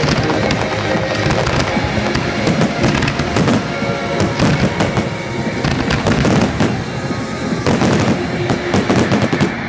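Aerial fireworks in a dense barrage: many overlapping shell bursts, bangs and crackling in quick succession, dying away at the very end.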